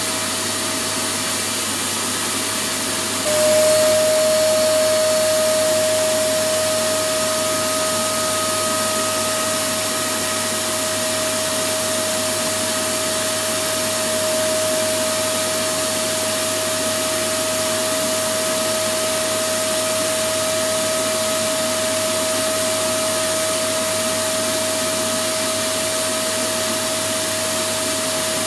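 Electric vacuum cleaner running steadily, a continuous rushing noise with a constant motor whine. About three seconds in it gets a little louder and the whine stronger, then holds steady.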